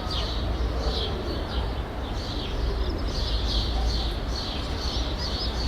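Small birds chirping over and over, over a steady low rumble of distant city traffic.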